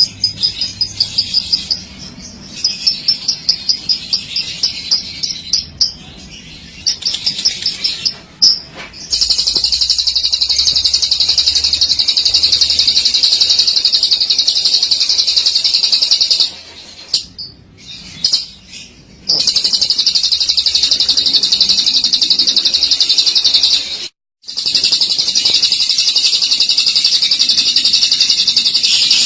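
Lovebird singing: rapid separate chirps at first, then about nine seconds in a continuous, high, rapid trilling chatter, the long 'ngekek', held for many seconds at a time with two brief breaks.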